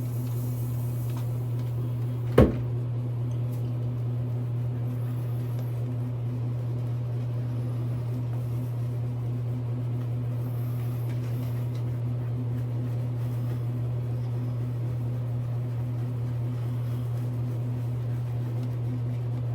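Steady low hum with a single sharp knock about two and a half seconds in.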